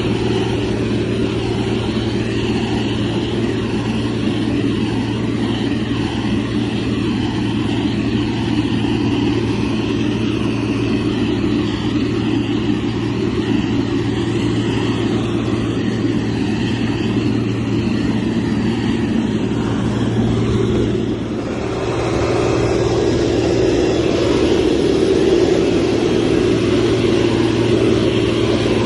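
Motor grader's diesel engine running steadily under work, with a steady low hum; it eases off briefly about three quarters of the way through, then picks up a little louder.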